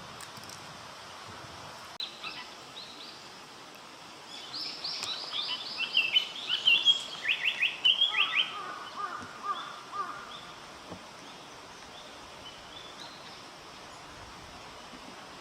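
A songbird singing in forest: a loud, fast, varied phrase of rapid notes about halfway through, dropping to lower notes at its end, with softer notes before and after over a steady background hiss.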